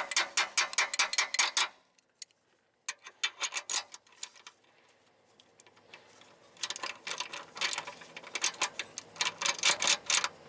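Ratchet wrench clicking in quick even runs, about six clicks a second, as it is swung back and forth on a bolt, with a pause in the middle.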